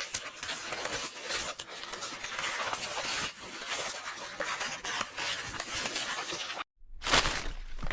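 Paper rustling and crackling as book pages are turned over and over in quick succession. It cuts off suddenly about seven seconds in, and a loud rip of paper tearing starts just after.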